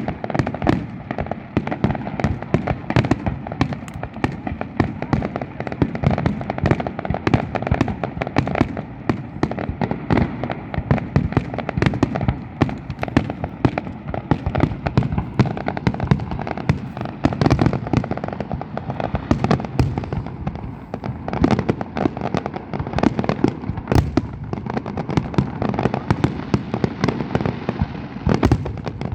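New Year fireworks display going off continuously: a dense, rapid barrage of bangs and crackling, many bursts a second with no let-up.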